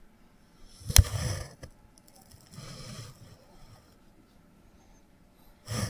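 Pencil and ruler handled on paper: a sharp knock about a second in, then short scraping pencil strokes.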